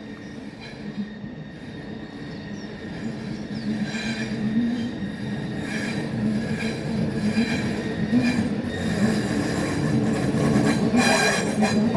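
A train approaching and drawing close on a curving junction, getting steadily louder: steel wheels squeal thinly against the rails, and from about ten seconds in a quickening run of clicks as the wheels cross rail joints and points.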